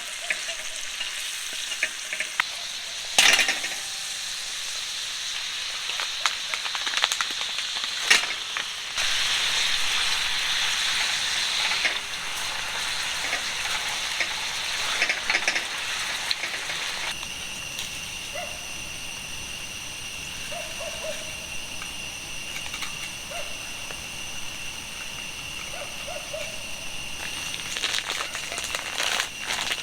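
Food sizzling in a frying pan, with a few sharp knocks of utensils about three and eight seconds in.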